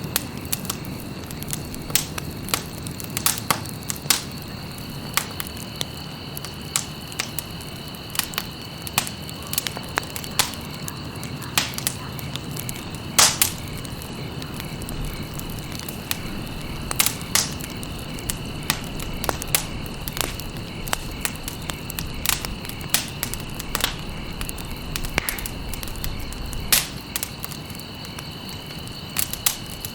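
Campfire crackling, with irregular sharp pops over a low rumble of burning. A few louder pops stand out, about 13 and 17 seconds in.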